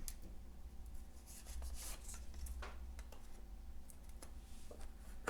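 Tarot cards being handled: a few soft swishes and light taps, spaced irregularly, over a faint low hum.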